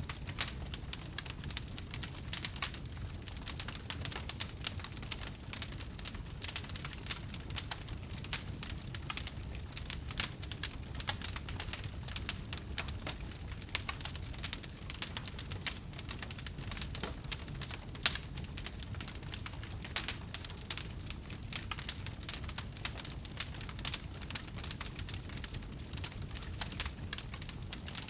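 Wood fire burning steadily, with dense irregular crackling and popping over a low rumble of flames, and one sharper pop about 18 seconds in.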